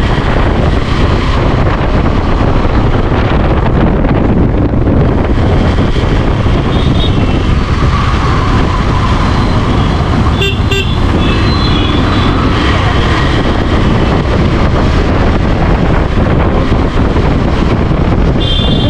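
KTM 390 Adventure's 373 cc single-cylinder engine running under steady riding, buried in a loud, even rush of wind and road noise. Brief vehicle horn toots sound about halfway through and again near the end.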